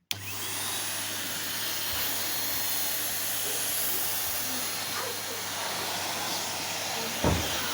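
Numatic Henry 160 compact vacuum cleaner switched on, its motor starting abruptly and then running steadily with a loud airflow hiss and a low hum. There is a single thump near the end.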